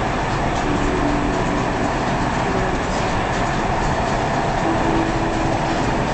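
Dubai Metro electric train running, heard from inside the passenger car: a steady rumble and hiss, with a faint hum that comes and goes.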